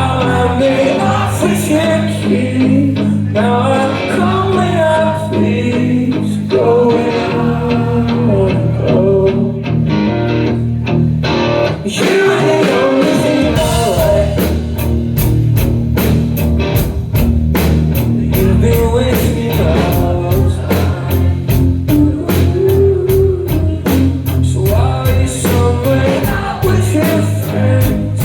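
Rock band playing live with a singer. About halfway through, after a brief drop, the drums come in harder with a fast, steady run of cymbal hits.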